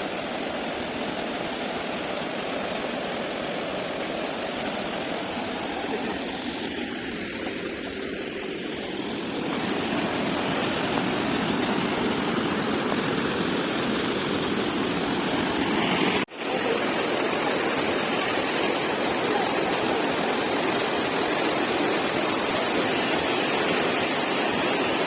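Steady rush of flowing water from a spring-fed stream and cascade. The sound breaks off for an instant about sixteen seconds in, then carries on slightly louder.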